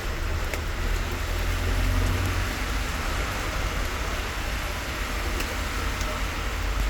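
Steady rain falling, with a deep steady rumble underneath and a few faint ticks of drops.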